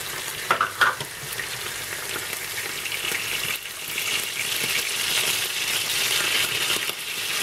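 Duck pieces and vegetables sizzling in frying pans, a steady hiss that grows a little louder about three seconds in.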